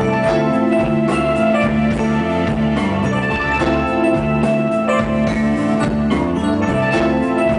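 Blues band playing live: an instrumental passage with drums and bass under sustained guitar or keyboard notes, and no singing.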